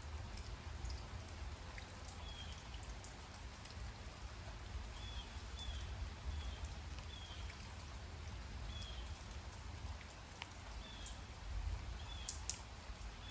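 Light rain falling, with scattered sharp raindrop ticks over a steady low rumble. A short, slightly falling high chirp repeats at irregular intervals, about once every second or two.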